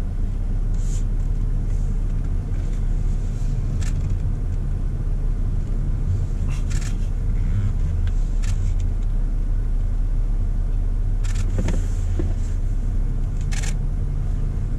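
Car engine and drivetrain humming steadily at low speed, heard from inside the cabin, with about half a dozen sharp camera-shutter clicks every couple of seconds as photos are snapped.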